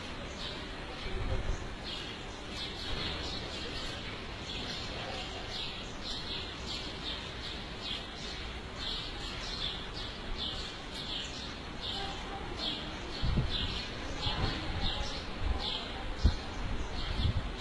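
A small bird chirping over and over, short high chirps about two a second, with a few low bumps near the end.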